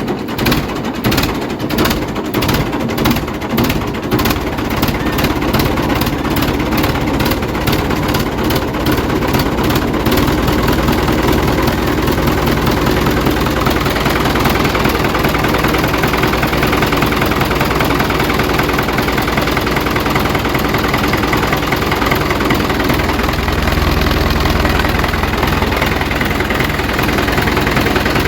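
Engine running, pulsing evenly at first and settling into a steady idle after about ten seconds.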